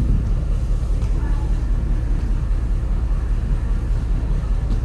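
Steady low rumble aboard a moving cruise ship.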